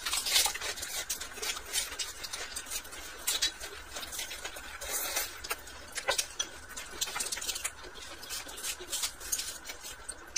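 Close-up chewing of a mouthful of raw coriander and leafy greens: irregular crunching and mouth clicks, several a second.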